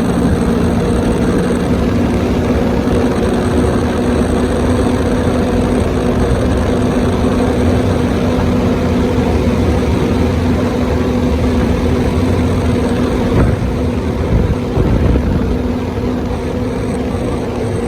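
Jet ski engine running steadily at cruising speed over a constant rushing noise, easing slightly near the end.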